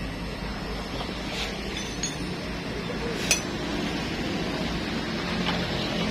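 A few light metallic clinks of tools or engine parts being handled, the loudest about three seconds in, over a steady low hum.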